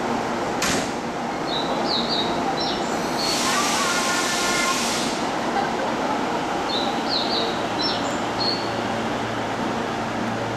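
Tokyo Metro 08 series subway train pulling out of a station, with steady running noise. There is a sharp clunk just under a second in, then a hiss of air lasting about two seconds. Short high chirps repeat in two groups, about a second apart.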